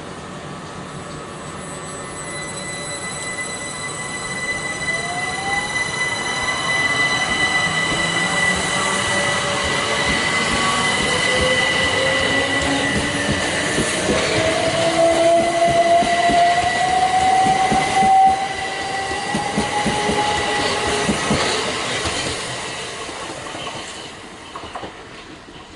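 A pair of GBRF Class 73 locomotives on a test train approaching and passing. Their running and the rail noise build up, peak about two thirds of the way through, then die away near the end. Steady high tones are held throughout, and a tone rises slowly in the middle.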